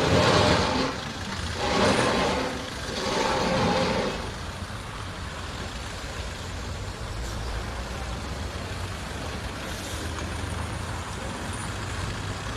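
Vehicle noise: three loud rushing swells in the first four seconds, then a steady low engine rumble.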